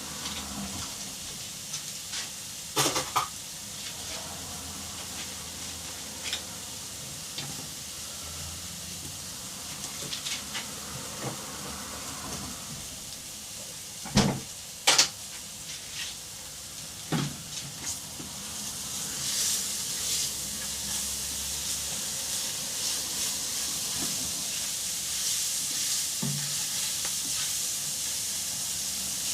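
Diced onions frying and sizzling in melted butter in a pan, stirred with a few sharp knocks of the utensil against the pan, the loudest two close together about halfway. The sizzle grows louder about two-thirds of the way through.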